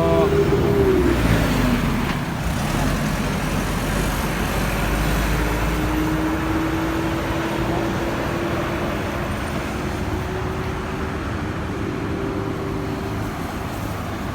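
Steady outdoor road traffic noise: a continuous rumble of passing vehicles. About five seconds in, a faint engine tone enters and slowly rises.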